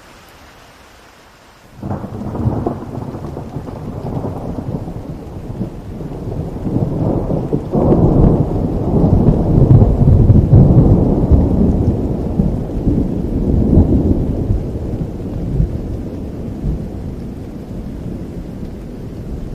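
Rain falling steadily, with a rolling clap of thunder that breaks in suddenly about two seconds in, swells to its loudest near the middle and slowly rumbles away.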